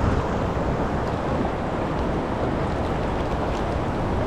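Steady rushing of fast-flowing river current, mixed with wind buffeting the microphone.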